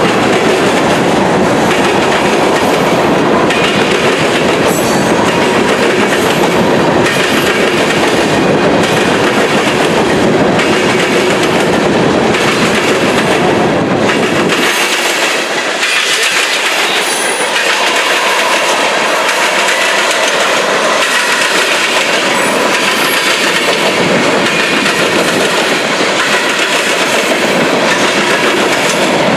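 Railroad cars rolling past, their wheels clacking over rail joints in a loud, continuous run. About halfway through, the deep rumble drops away and the higher rolling noise carries on.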